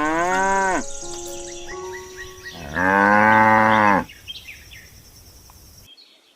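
Cow mooing twice: a long call that falls in pitch and ends under a second in, then a second long moo about three seconds in.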